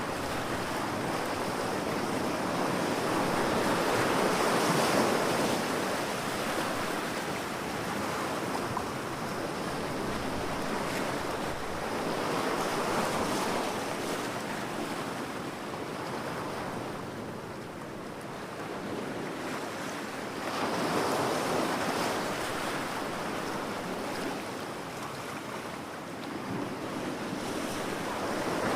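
Surf breaking on a beach, a steady wash of water that swells and falls back about every eight seconds.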